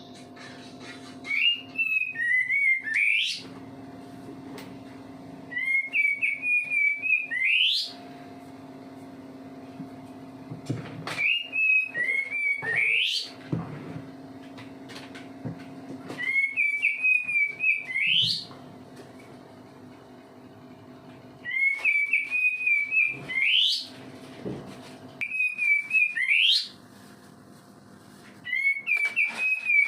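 A kapas tembak songbird singing loud, whistled phrases over and over, about every four to five seconds: a short warble of notes, each phrase ending in a sharp rising whistle. A steady low hum runs underneath.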